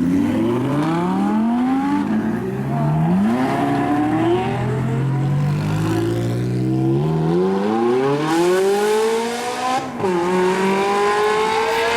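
High-performance car engines accelerating hard. The engine note climbs, drops back sharply at each upshift and climbs again, with a long pull to a high pitch and a gear change about ten seconds in.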